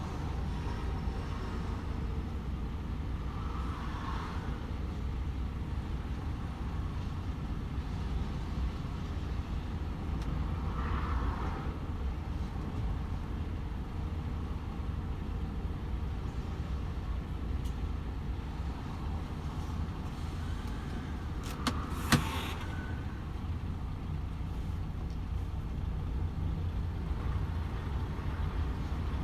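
DAF XF 510 truck's PACCAR MX-13 six-cylinder diesel running steadily at motorway speed with tyre and road noise, a low, even rumble. A single sharp click sounds about three quarters of the way through.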